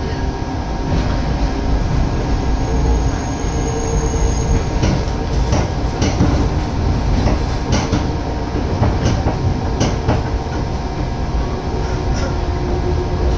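Hakone Tozan Railway electric train running, heard from inside the car: a steady low rumble with thin steady tones over it. From about five seconds in come a string of sharp clacks, irregularly spaced, as the wheels pass over rail joints.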